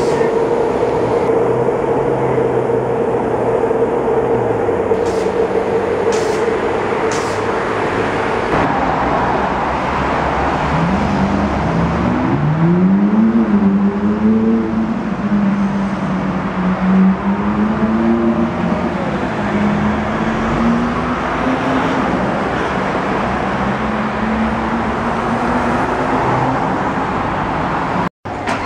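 City traffic with car engines running. Midway, a Ferrari 458 Italia's V8 revs up, its pitch climbing in several steps, then holding steady for several seconds as it drives past.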